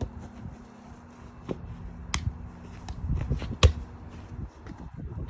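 A few sharp knocks or taps over low rumbling, the loudest about three and a half seconds in.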